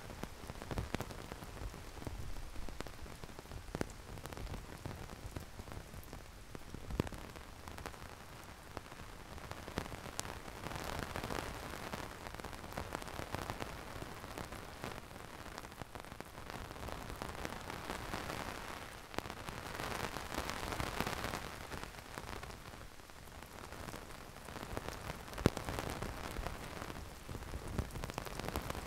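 Heavy rain falling, a steady hiss dotted with many sharp, close drop impacts. The hiss swells twice, about a third of the way in and again past the middle.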